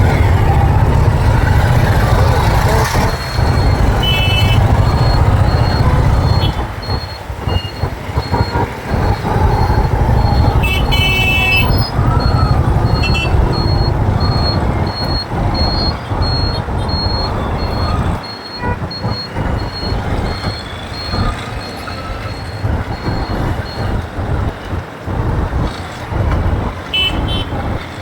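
Riding a motorcycle through city traffic: engine and road rumble, heavy for the first few seconds and then lighter, with vehicle horns honking several times, the longest about eleven seconds in. A high beep repeats at an even pace through most of the stretch.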